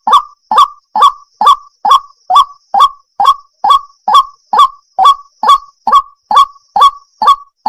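Waterhen calling: a fast, steady series of short, harsh croaking calls, about two a second, each dropping in pitch.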